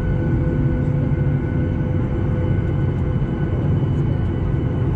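Cabin noise of a Boeing 737-800 heard from inside, with its CFM56 jet engines running: a steady rumble with several constant tones.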